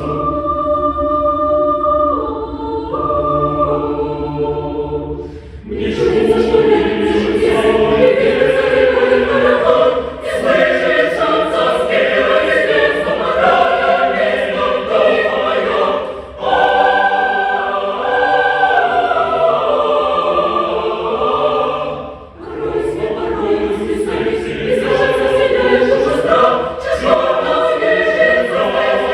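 Choir singing a choral piece: soft held chords for about the first five seconds, then fuller, louder singing with brief breaks between phrases about ten, sixteen and twenty-two seconds in.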